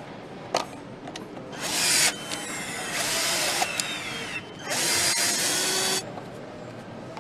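Power tool running in two loud hissing bursts, the second about a second long, with a motor whine rising in pitch between them and a sharp click shortly before.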